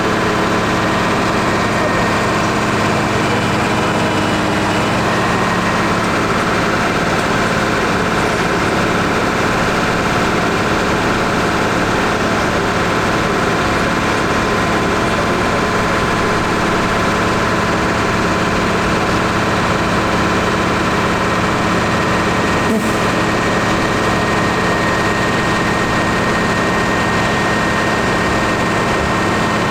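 New Holland T7.170 tractor's engine running steadily, hooked to a PTO dynamometer for a power test, with a steady whine over the engine note. The pitch shifts slightly about five seconds in.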